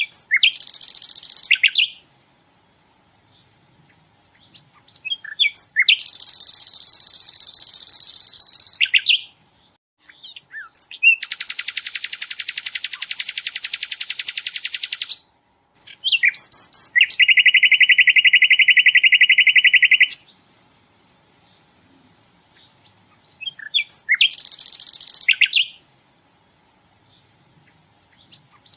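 Sikatan londo songbird singing in loud bouts of very fast, buzzy trills, each a few seconds long and led in by a few short chirps, with pauses between; the fourth bout is pitched lower than the others. These rapid volleys are the "tembakan" that bird keepers play as a master song for other songbirds to copy.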